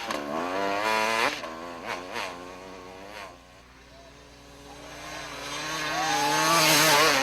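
Motocross bike engine revving. It drops away about a second in, then builds up steadily again to its loudest near the end.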